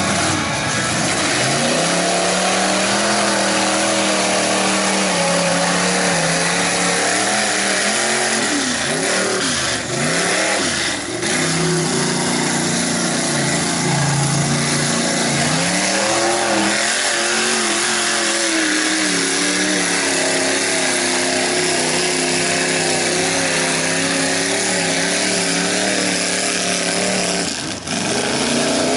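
Lifted mud truck's engine running hard under throttle, its pitch dipping and rising several times as it revs, over a constant rush of noise.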